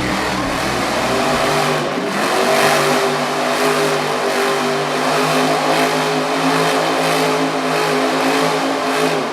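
Monster truck engine running loud at high, steady revs, its pitch shifting about two seconds in.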